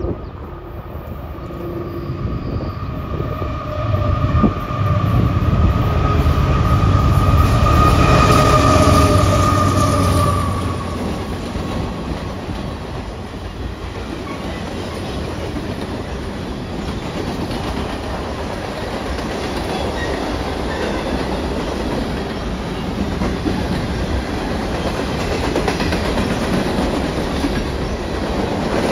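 CPKC freight train passing close by: the diesel locomotives go by first with a heavy engine rumble and a steady high whine, loudest about four to ten seconds in. Then the string of cars rolls past with a steady clatter of wheels on the rails.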